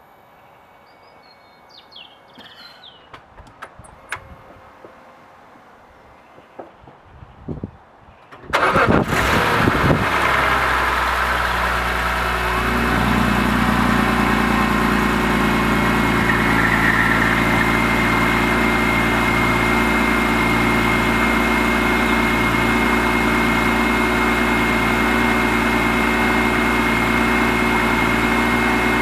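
BMW E46 M3's S54 straight-six cranking and catching about a third of the way in, flaring up loudly for a moment, then settling into a steady cold-start idle with a thin high whine over it. Before it starts there are only a few faint clicks and knocks.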